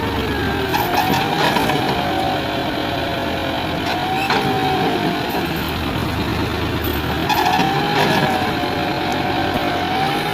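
John Deere 5050D tractor's diesel engine running hard, its pitch rising and falling several times as the throttle is worked to pull a loaded trailer free of the mud.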